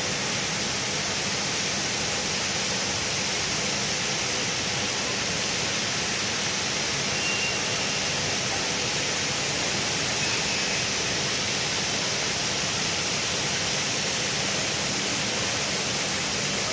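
TIG welding arc hissing steadily, an even unbroken hiss with a faint low hum underneath.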